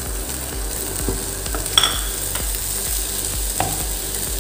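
Chicken and onion-tomato masala sizzling in a frying pan while a wooden spatula stirs and scrapes it, with a few sharper scrapes against the pan.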